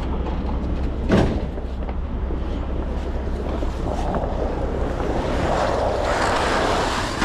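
Wind rushing over the microphone over a steady low rumble, with a single knock about a second in. The rushing grows louder in the second half.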